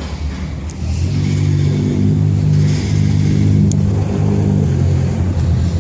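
A motor engine running steadily, growing louder about a second in.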